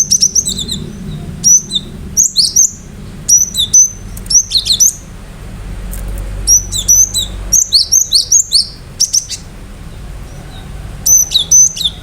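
Cinereous tit (gelatik batu) singing loud, sharp, high phrases of quick downward-sweeping notes, repeated in bursts with short pauses between, over a faint low hum.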